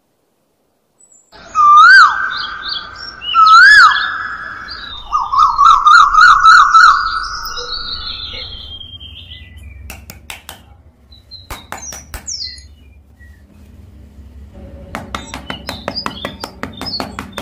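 Loud bird-like whistled chirps: two looping rise-and-fall whistles, then a quick warbling trill, fading away. A few sharp clicks follow, and near the end music with a fast ticking beat comes in.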